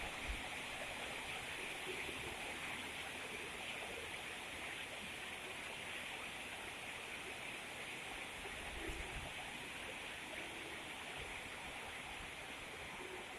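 Steady rain falling, an even hiss of water, with a few brief low rumbles.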